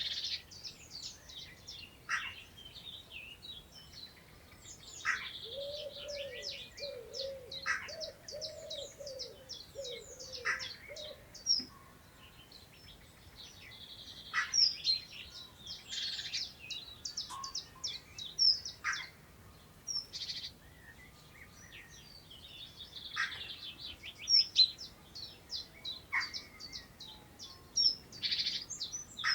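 Several birds singing and calling together in a dawn-chorus-like mix of rapid chirps and trills. One short call repeats every two to three seconds, and a lower warbling phrase joins in from about five to eleven seconds in.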